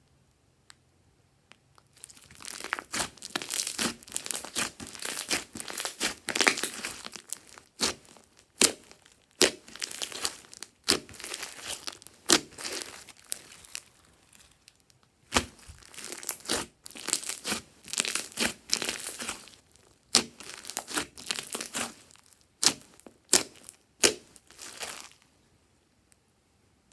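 Glossy slime being kneaded and squished by hand: a dense run of sticky clicks and crackles that starts about two seconds in and stops shortly before the end.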